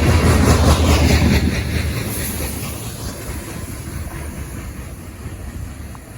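The rear cars of a CSX coal train rolling past: a loud rumble and rattle of wheels on rail that fades steadily as the end of the train moves away.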